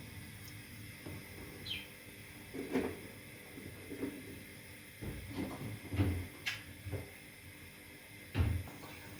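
Kitchen items being handled: a series of irregular short knocks and clunks, the heaviest about six and eight and a half seconds in, with a brief falling squeak about two seconds in.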